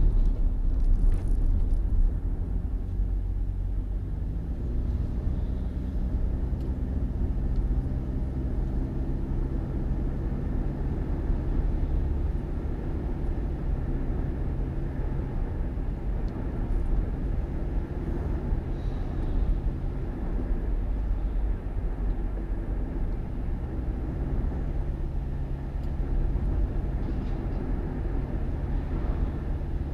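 Vehicle engine running steadily with low road rumble, as on a drive.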